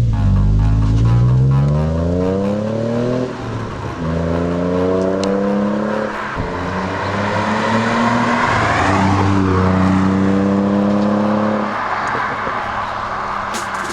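Ford Mondeo ST220's V6 engine through a stainless steel performance exhaust, accelerating hard through the gears. The pitch climbs steadily, then drops at upshifts about three, six and twelve seconds in.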